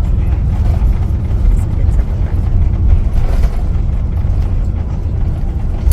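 Steady, deep rumble of a jet airliner's cabin: engine and airflow noise heard from a passenger seat.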